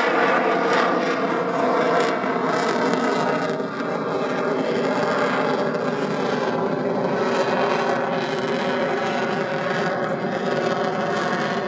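Steady jet engine noise from a fighter jet flying a display, a continuous rushing sound with a few held tones in it.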